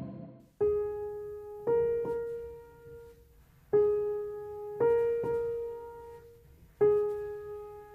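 Slow, sparse solo piano music: single notes struck about once every second or two, each left to ring and fade.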